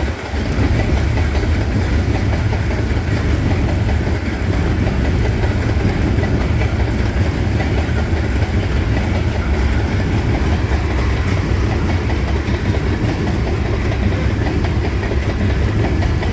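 Canadian National freight train rolling steadily past at close range, a loud constant low rumble from the cars and wheels, with rain hissing over it.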